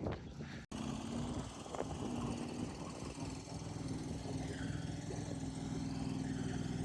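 An engine idling steadily with an even, fast-pulsing drone. The sound cuts out briefly just under a second in.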